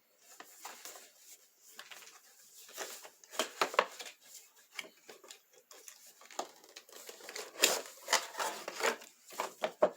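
Toy packaging being opened and handled: irregular crinkling, tearing and rustling of cardboard and plastic, in clusters about three seconds in and again near the end.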